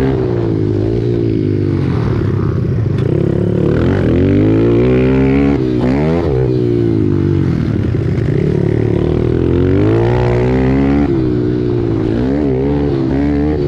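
Pit bike engine at racing throttle, its pitch climbing and dropping again and again as the rider accelerates and backs off, with sharp dips about two, six and twelve seconds in.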